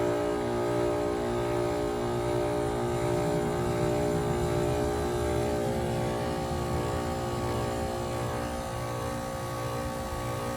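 2002 Lennox Merit Series heat pump running in its defrost cycle, a steady multi-toned hum over a rushing noise. Some of the tones shift slightly about six seconds in, and the level eases a little toward the end.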